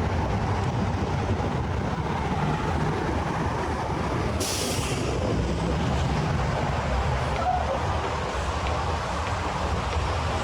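Steady rumble of city street traffic with heavy vehicles, with a short sharp hiss about four seconds in.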